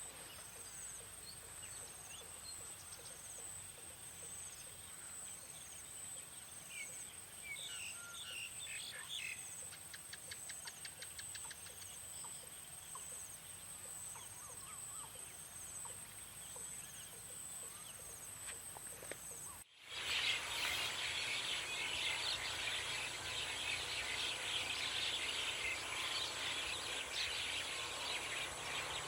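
Forest ambience: a steady high insect drone with a regularly pulsing insect call, and scattered short bird chirps and a rapid trill. About two-thirds of the way through, the sound cuts abruptly to a louder, dense chorus of chirping birds and insects.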